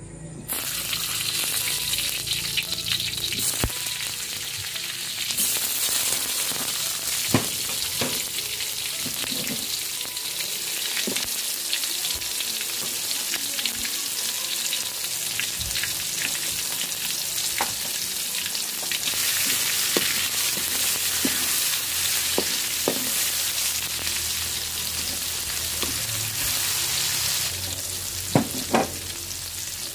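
Chopped ingredients sizzling in hot oil in a metal wok, starting suddenly about half a second in as they are dropped into the pan. A steady high-pitched sizzle runs throughout, with occasional sharp clicks.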